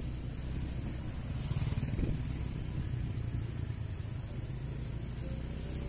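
Small motorcycle engine running at a steady low speed while riding along a rough dirt track, with road and wind noise.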